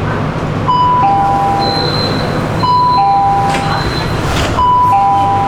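Metro train's on-board chime sounding a falling two-note ding-dong three times, about two seconds apart, over the steady low hum of the train.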